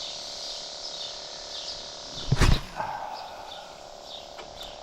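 Night chorus of insects and frogs: steady high chirping and trilling, with one loud thump about two and a half seconds in.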